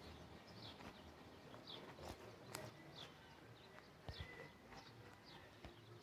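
Near silence outdoors, with a small bird repeating short falling chirps about once or twice a second and a soft thump about four seconds in.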